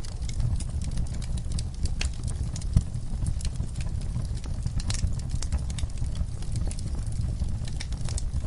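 Wood fire crackling in a fireplace: irregular sharp pops and snaps over a steady low rumble of flames, with one louder pop about three seconds in.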